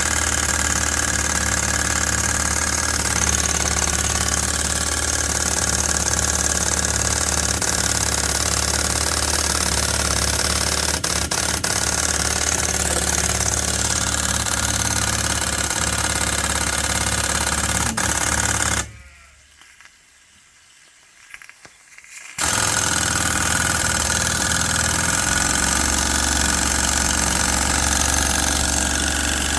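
Stuart steam boiler feed pump running on steam, a steady mechanical running sound with a low hum and a constant hiss of steam. The sound cuts out for about three seconds a little past the middle, then resumes.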